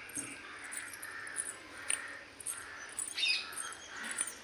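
Birds calling in the background, with one louder call about three seconds in.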